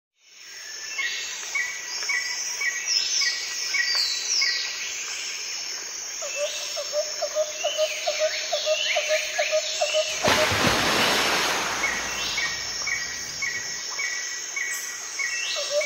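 Birds chirping and calling in quick, repeated phrases, with a lower pulsed call in the middle and a rushing noise about ten seconds in.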